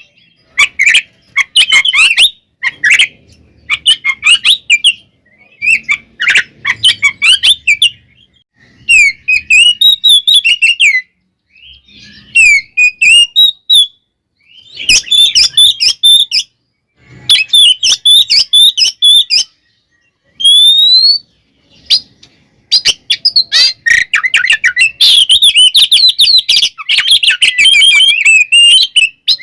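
Oriental magpie-robin (kacer) in full, agitated fighting song: loud phrases of rapid whistles and chattering notes broken by short pauses, with one rising whistle about twenty seconds in, then a continuous run of song near the end.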